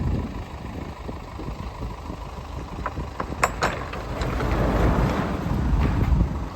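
Hydraulic liftgate on a box truck running as it lifts its platform, a steady low rumble. A few sharp metallic clicks come about three seconds in, followed by a louder, noisier stretch.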